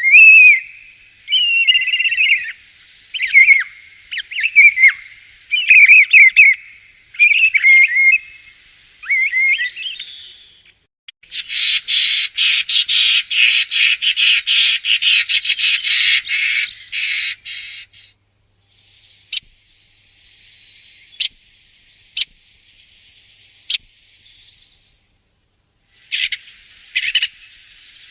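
Common starling singing: a series of whistled, gliding notes, then a long dense rattling chatter of rapid clicks, then scattered single clicks, with another short rattle near the end.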